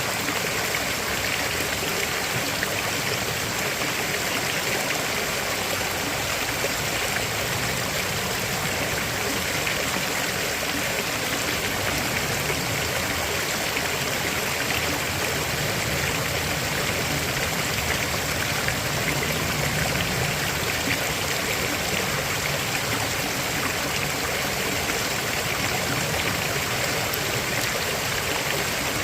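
River water flowing steadily over rocks, an even rushing with a light trickle.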